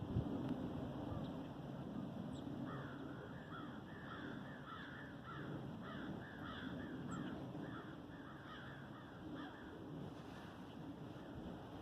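A bird calling in a long run of short repeated notes, about two a second, starting about three seconds in and stopping near ten seconds, over a steady low background noise.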